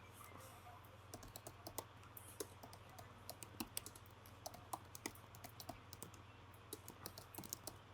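Faint typing on a computer keyboard: irregular key clicks, several a second, over a steady low hum.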